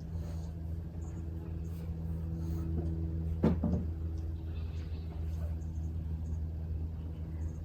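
A steady low mechanical hum, with one sharp knock about three and a half seconds in.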